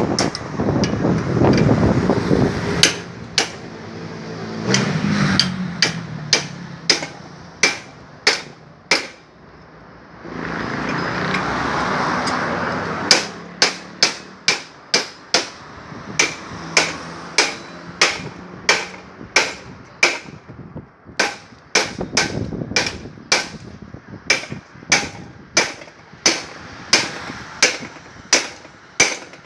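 Hammer blows on a steel motorcycle frame being straightened: a long, steady run of sharp strikes, about one and a half a second. The strikes break off for a few seconds about ten seconds in, while a steady rushing hiss runs.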